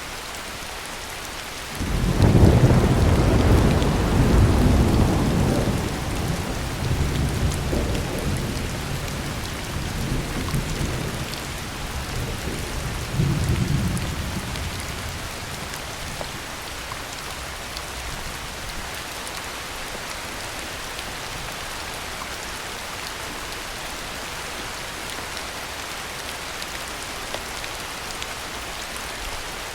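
Heavy rain falling steadily. About two seconds in a clap of thunder breaks in suddenly and rolls on in several swells, dying away around halfway through.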